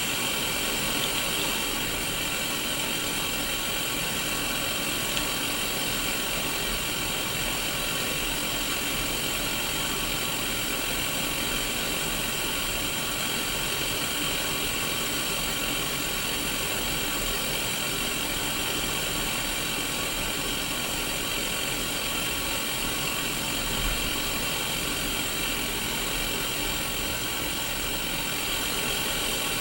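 Analogue TV static from a Sony Mega Watchman mini CRT television tuned to an empty channel: a steady, even hiss from its small speaker.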